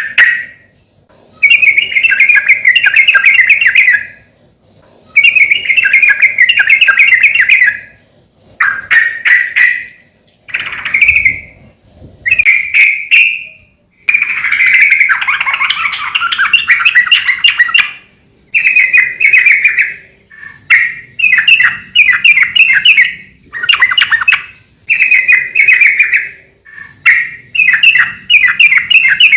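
Yellow-vented bulbul (trucukan) singing in full voice: loud, bubbly chattering phrases of one to four seconds each, repeated again and again with short pauses between them.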